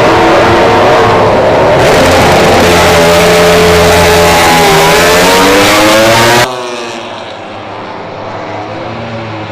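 MotoGP racing motorcycle engine at high revs, very loud and close, its pitch dipping and then climbing again. About six and a half seconds in, it cuts off abruptly to a quieter, more distant motorcycle engine.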